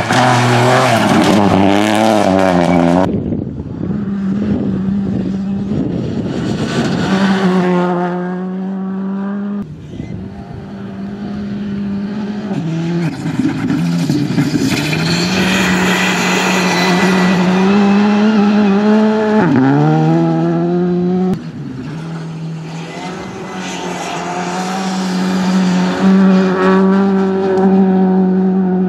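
Rally cars passing on a special stage one after another, their engines revving hard, rising and dropping in pitch through gear changes. The sound changes abruptly about 3, 10 and 21 seconds in, as one car's pass cuts to the next.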